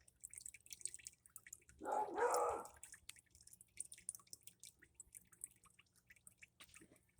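Water dripping rapidly from a faucet that leaks past its worn-out rubber washer, heard as a quick run of small drips. About two seconds in there is a brief, louder, fuller noise lasting under a second.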